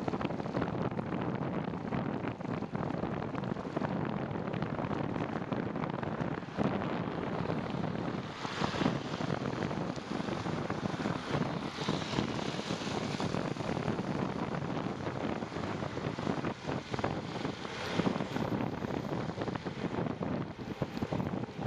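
Wind rushing over the microphone of a bicycle riding along a wet trail: a steady noise with many small ticks and crackles running through it.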